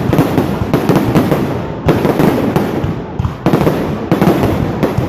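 Fireworks going off in a loud, dense barrage of overlapping bangs, nearly continuous, with short lulls about two and three seconds in.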